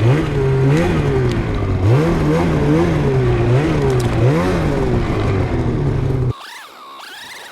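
Snowmobile engine revving up and down over and over, the throttle worked about once a second as the sled is ridden. About six seconds in it cuts off suddenly, leaving a fainter, higher engine whine that rises and falls.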